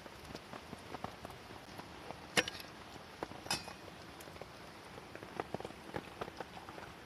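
Rain pattering on a tent, with scattered small ticks, and two sharp metallic clinks about a second apart a little over two seconds in.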